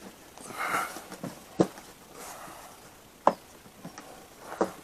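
Quiet handling noises of tools and parts at a workbench: a soft rustle, then three separate sharp clicks or knocks spaced a second or more apart.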